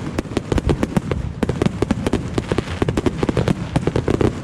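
Fireworks going off in a rapid, dense run of sharp cracks and pops, many a second, over a low rumble.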